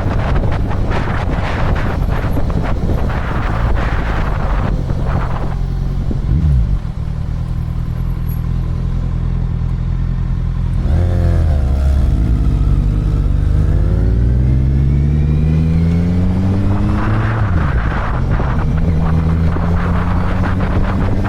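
Motorcycle engine running under way with heavy wind buffeting on the microphone. The wind rush eases about six seconds in. Near the middle the engine pitch dips, then rises steadily for about five seconds as the bike accelerates, and the wind noise builds again toward the end.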